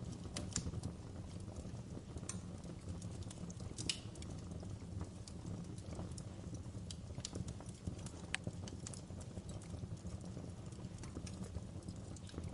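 Wood fire crackling: irregular sharp pops and snaps, a couple louder ones near 4 and 8 seconds in, over a steady low rumble of burning.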